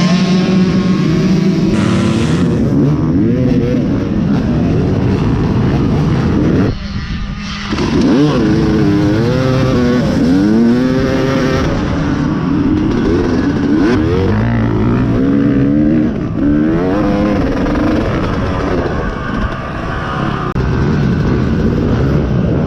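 Dirt bike engine revving hard under racing load, its pitch climbing and falling again and again as the throttle is worked and gears change. There is a short dip about seven seconds in, after which the revving picks up again.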